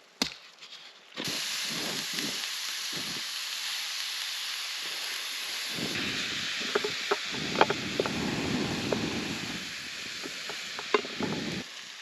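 Ground beef sizzling in a hot pan, the sizzle starting suddenly about a second in and running steadily, with a few clicks and scraping from stirring in the second half.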